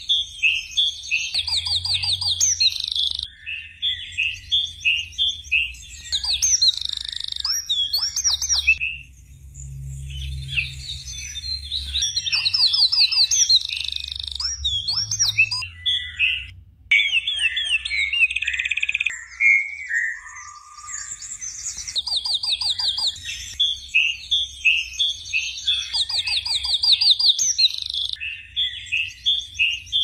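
Birdsong: phrases of quick, high chirps and rapid trills a few seconds long, with short pauses between them.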